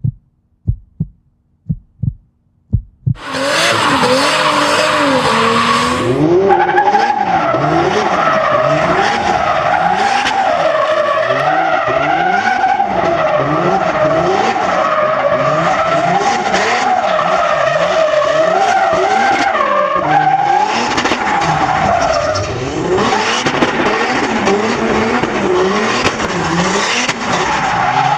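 A car drifting: loud, continuous tyre squeal that wavers up and down in pitch, with the engine running hard beneath it. A few separate low thumps come before it starts, about three seconds in.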